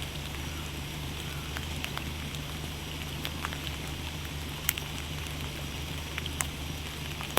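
Light rain pattering with scattered drips, over a steady low hum.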